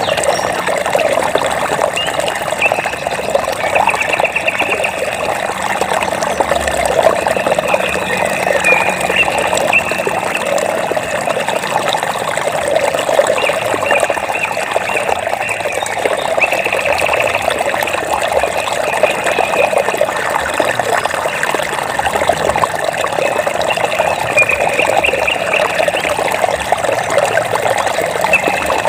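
Water flowing and trickling steadily, an even rushing sound with no breaks. Short, high, rapidly pulsing trills sound over it every few seconds.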